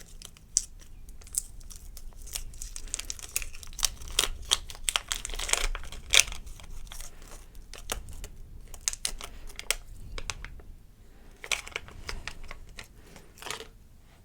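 Plastic packaging crinkling and tearing as it is worked open to get at a mini gloss slime, with irregular crackles and clicks throughout.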